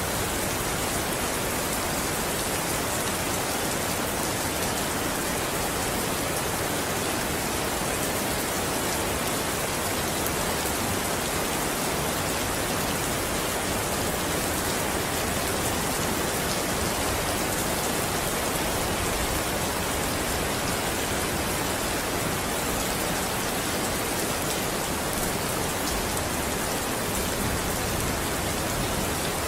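Steady rain falling, an even hiss of drops on a surface with no thunder or other events.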